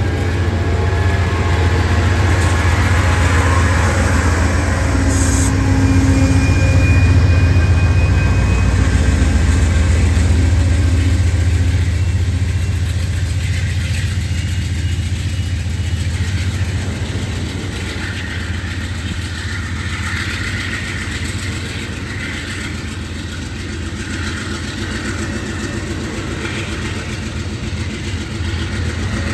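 Train passing, with a diesel locomotive's deep engine rumble that is loudest several seconds in and then eases off.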